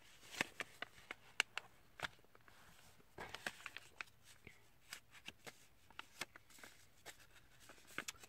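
A sheet of printer paper being folded and creased by hand, with soft rustling and irregular sharp crackles as the folds are pressed down.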